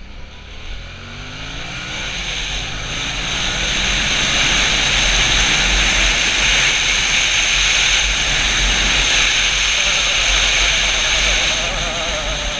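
Yamaha FZ-07's parallel-twin engine accelerating, its pitch rising over the first few seconds, then buried under loud wind rushing over the microphone as the bike reaches speed.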